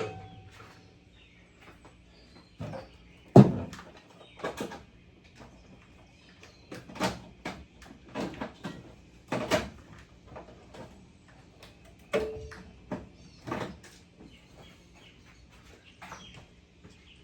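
Irregular knocks and clunks of parts and tools being handled during car repair work, about a dozen in all, the loudest a sharp clunk about three and a half seconds in.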